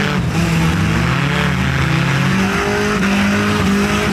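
Several demolition derby cars' engines running and revving together, their pitch rising and falling in the first second, then holding steadier.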